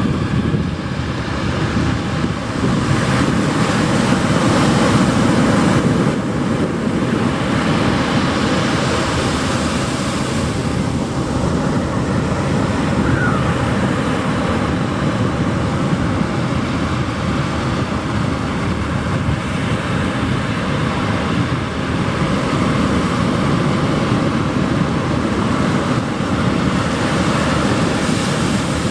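Ocean surf washing onto a beach in a steady roar that swells a few seconds in, with wind buffeting the microphone.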